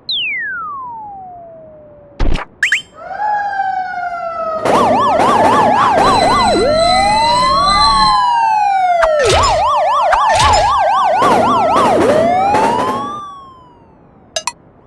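Several police sirens sounding together, some in a slow rising-and-falling wail and others in a fast yelp, loud for several seconds before fading away. They are preceded by a falling tone and a single sharp hit.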